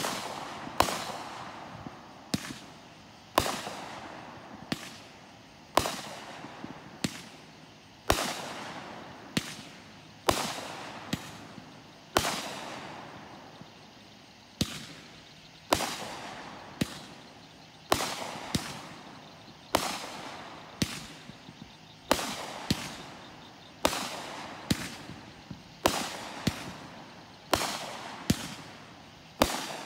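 Consumer aerial fireworks going off: a long string of sharp bangs, about one a second, each trailing off before the next.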